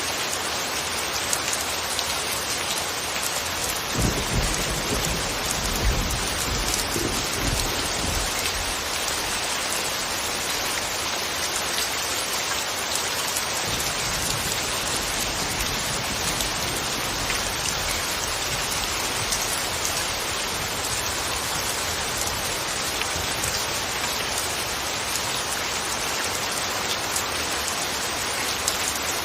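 Steady rain falling, an even hiss of drops, with a low rumble of distant thunder about four seconds in that fades over the next few seconds.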